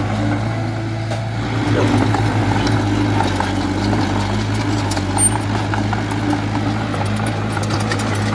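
Diesel engine of an earthmoving machine, a small bulldozer or dump truck, running steadily at a constant speed.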